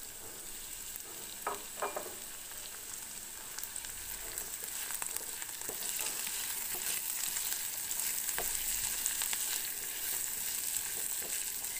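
Onion, green chilli and diced apple sizzling in hot oil in a kadai, with a spatula stirring and scraping through the pan; the sizzle grows a little louder about halfway through.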